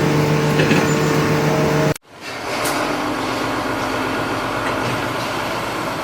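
A motor running with a steady hum that cuts off abruptly about two seconds in, followed by a steady, even rushing noise of machinery or traffic.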